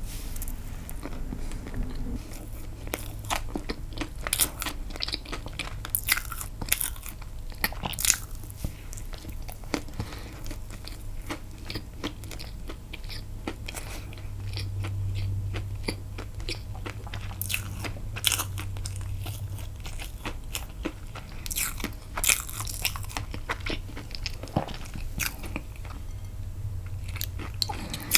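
Close-miked eating sounds: irregular wet mouth clicks and chewing as someone eats castella sponge cake dipped in milk.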